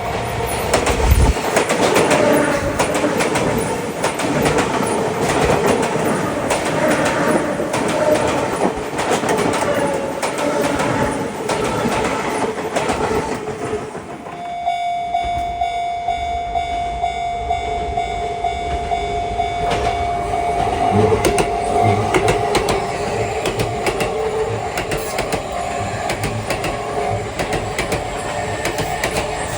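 Electric commuter trains passing on double track. In the first half a Sotetsu 8000 series train runs by with its wheels clicking over the rail joints. About halfway through a Sotetsu 20000 series train comes in, bringing a steady tone over its own rumble and wheel clicks.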